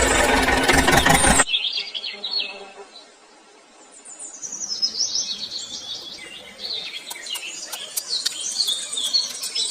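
Small birds chirping: many short, quick chirps that slide downward in pitch, with a few sharp ticks. They follow a loud, steady noise that cuts off abruptly about a second and a half in.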